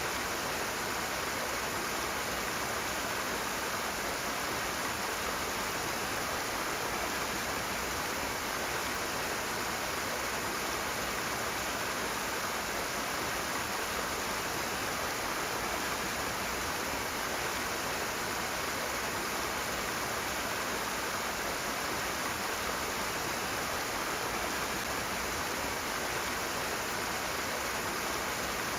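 Rushing water, a steady full hiss of fast-flowing stream water that holds even without change.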